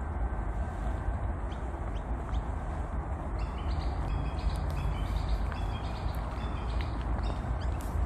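A bird calling in a quick run of short, high chirps that starts a few seconds in and lasts about four seconds, over a steady low rumble.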